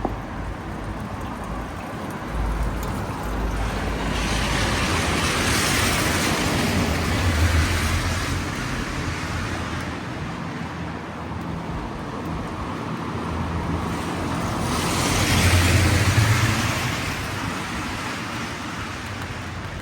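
Two cars passing on a wet road, their tyres hissing as each swells up and fades away, the first about four seconds in and the second near the end, over a steady background of rain and street noise.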